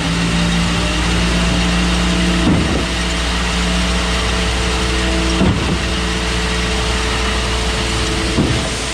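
Concrete pump truck running under load, its diesel engine holding a steady pitch, with a brief surge and shift in the sound about every three seconds as the pump strokes change over.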